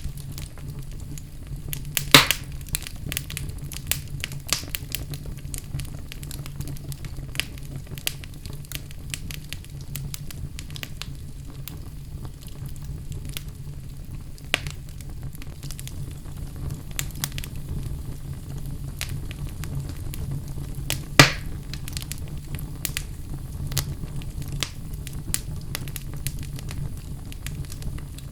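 Wood fire burning in a fireplace: constant irregular crackling over a steady low rumble, with two louder sharp pops, one about two seconds in and one about two-thirds of the way through.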